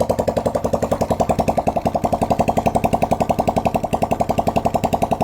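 Motorcycle engine, out of its bike, idling with an even beat of about twelve firing pulses a second.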